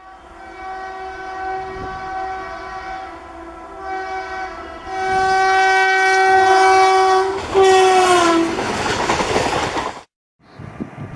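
Electric locomotive's air horn sounding several blasts, then one long loud blast whose pitch sags as it dies away. A loud rushing noise follows. About ten seconds in, the sound cuts off abruptly and gives way to a lower rumble with wind.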